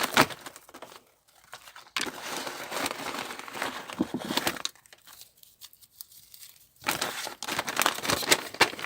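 Wrapping paper crinkling and tearing as a wrapped gift is opened by hand, in spells of rustling with quieter pauses between: a short burst at the start, a longer spell from about two seconds in, and another near the end.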